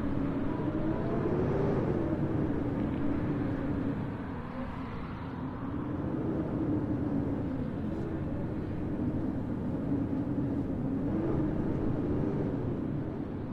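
City street ambience in a snowstorm: a steady low hum that wavers slightly in pitch over a continuous rumble, dipping briefly about four seconds in.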